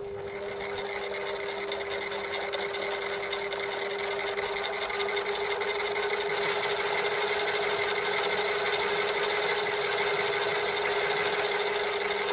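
Metal lathe switched on and running: a steady motor hum with a rough scraping cutting noise that builds as the tool works the part. A high whine joins about halfway through.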